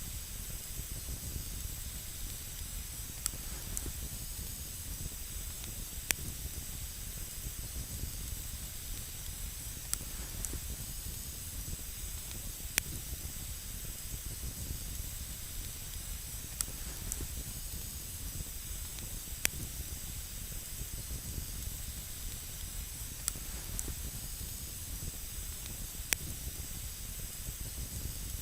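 Wood campfire burning with a steady hiss and low rumble, cut by sharp crackling pops every second or few.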